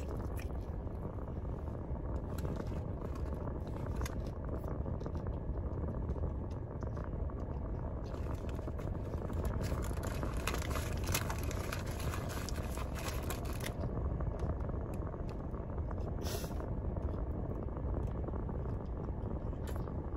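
Steady low hum of a car cabin, with small clicks and rustles of someone biting and chewing a taco. A brighter rustling hiss runs for several seconds in the middle, and a short crackle comes about 16 seconds in.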